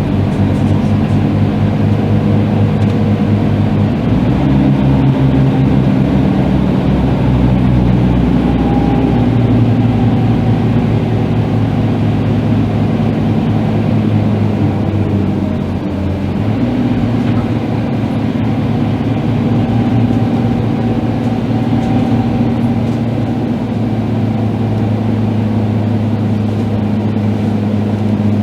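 Diesel engine of a Scania K310IB bus running steadily under way, its note shifting in pitch several times as it changes speed, with a brief drop in loudness about two-thirds of the way through.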